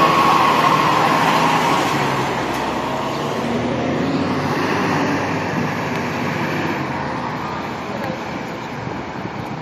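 FDNY fire engine driving off, its engine noise steadily growing fainter as it pulls away.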